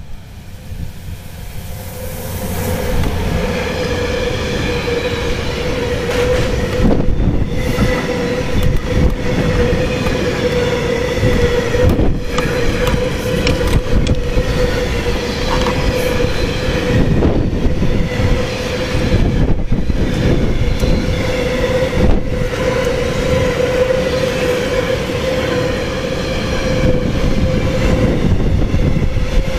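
A train passing close by, coming in about two seconds in. It runs with a steady high whine over the rumble of its wheels and irregular clacks of the wheels over the rail joints.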